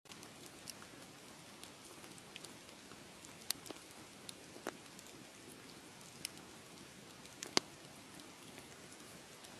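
Wood fire crackling: a steady soft hiss with scattered sharp pops and snaps, the loudest about three quarters of the way through.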